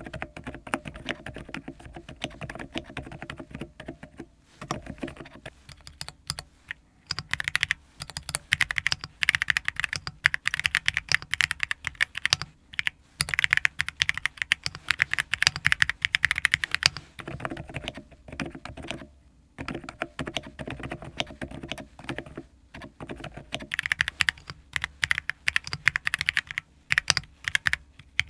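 Fast typing on a custom mechanical keyboard: dense runs of key clacks broken by short pauses, growing louder and brighter from about seven seconds in.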